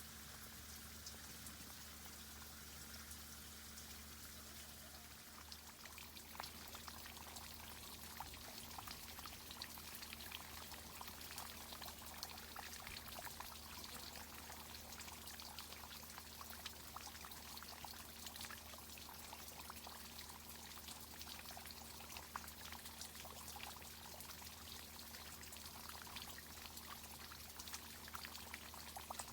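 Water from a tree irrigation system trickling, faint, with many small crackling ticks that grow busier about six seconds in. A steady low hum runs beneath.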